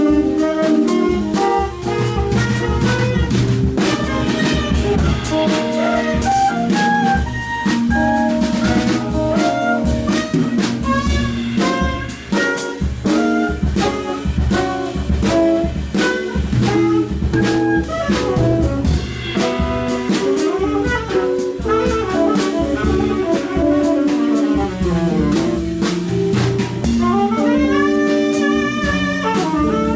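Live jazz trio of tenor saxophone, electric guitar and drum kit playing, the saxophone's melody lines over guitar and drums, with a quick run of notes sweeping down and back up near the end.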